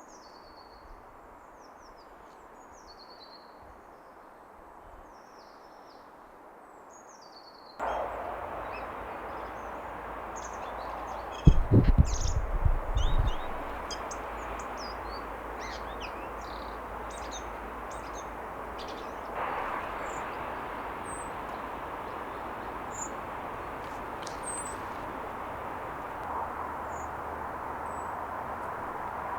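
Small songbirds singing and chirping, with short high notes and falling phrases, at first over a quiet background. About a quarter of the way in, a steady rushing background noise comes in. Shortly after that comes a brief cluster of loud, low thumps.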